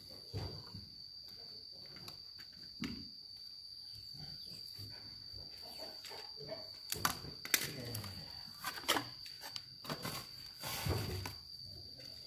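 Scattered knocks and clattering handling sounds, busiest in the second half, over a steady high-pitched tone.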